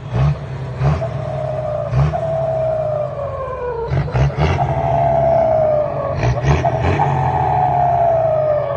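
Isuzu 6SA1 truck diesel revved in repeated throttle blips, with its HX50 turbocharger whistling over the engine's deep rumble. After each blip the whistle falls slowly in pitch as the turbo winds down.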